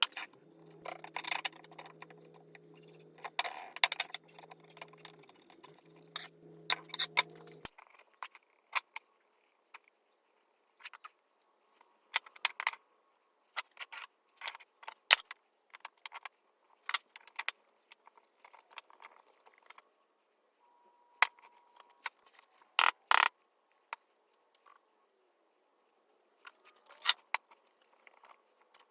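Irregular sharp clicks and light taps of small hard parts being handled and set down, with a steady machine hum that cuts off suddenly about seven seconds in.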